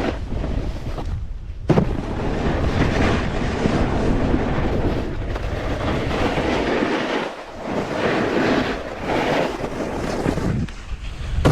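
Wind rushing over a GoPro action camera's microphone, mixed with the rough hiss of a snowboard sliding over slushy snow; the noise swells and dips, with one sharp knock about two seconds in.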